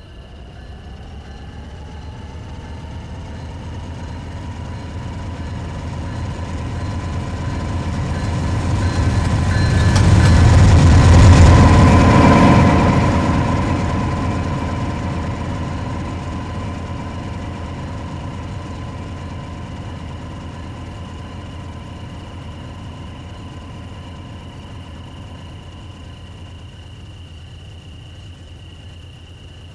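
Three Union Pacific diesel locomotives departing and passing. The deep engine rumble swells to its loudest about a third of the way through, then slowly dies away, with a steady pitched hum running under it that fades out near the end.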